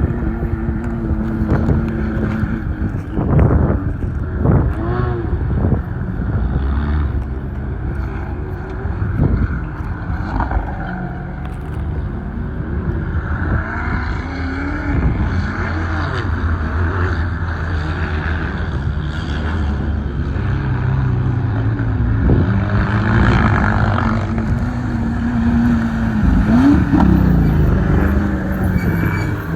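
Defender Dakar rally car's twin-turbo V8 engine driven hard over rough ground, its revs rising and falling again and again.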